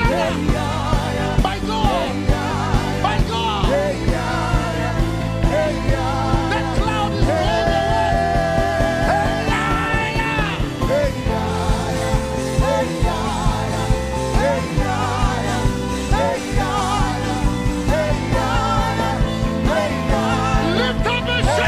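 Live worship band music with a steady beat of about two a second, under a lead voice singing wordless, wavering runs with vibrato.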